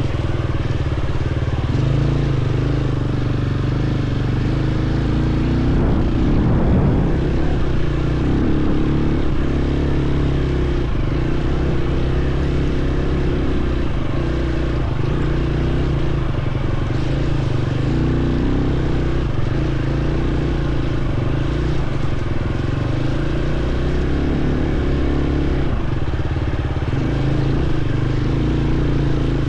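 Dirt bike engine running while being ridden along a trail, its pitch stepping up and down as the throttle and gears change.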